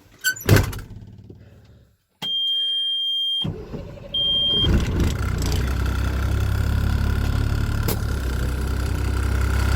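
A sharp knock, then a straight truck's engine is started: a high warning beep sounds twice and the engine catches about five seconds in, settling into a steady idle.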